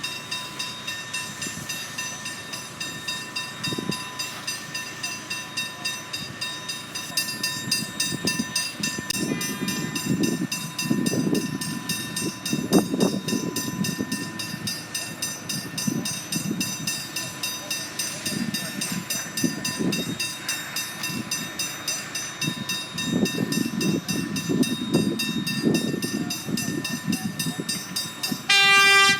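Level crossing electronic bell ringing rapidly while a train passes over the crossing, its wheels rumbling louder and softer as the cars go by. A short train horn blast sounds near the end.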